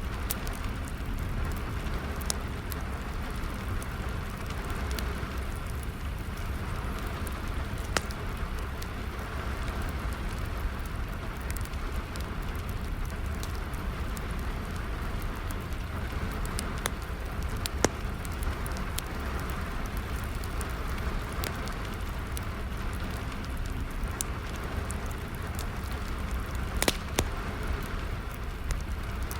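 Steady rain with a wood fire burning, its crackle heard as scattered sharp pops, a few louder ones standing out.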